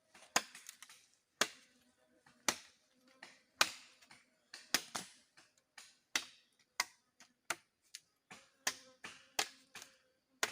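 A series of sharp knocks from wood being struck as poles are set up for a camp shelter. They come about one a second at first and faster in the second half, each with a short ringing tail.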